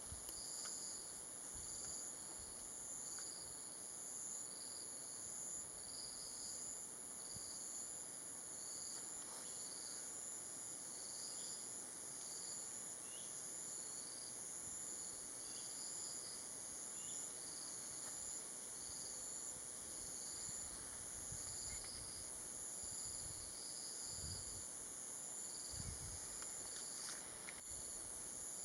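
Tropical forest insect chorus: a steady high-pitched drone with a rhythmic pulsing trill beneath it, about one pulse a second, and a few faint short chirps in the middle.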